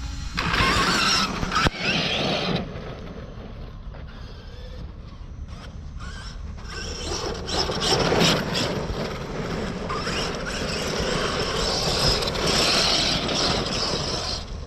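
Arrma Kraton 12S RC car with a 700KV Leopard brushless motor, driven hard in bursts. It is loud from about half a second to two and a half seconds in, quieter for a few seconds, then loud again from about seven seconds on.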